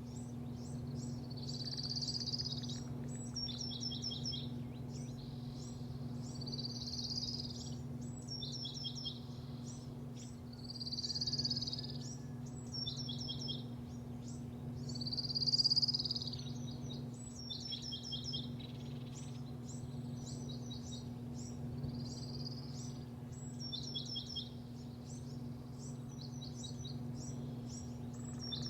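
Songbirds calling over and over: a short whistled phrase alternating with quick runs of falling chirps, roughly every two seconds, over a steady low hum.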